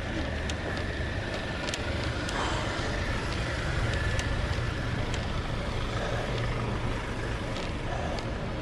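Steady road and traffic noise heard from a moving bicycle: a low hum and rushing noise with a few light clicks scattered through.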